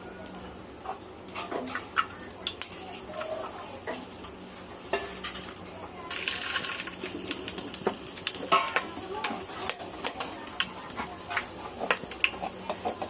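Hot cooking oil in a pan starts sizzling loudly about six seconds in as food goes into it, with a spoon clinking and scraping against the pan throughout.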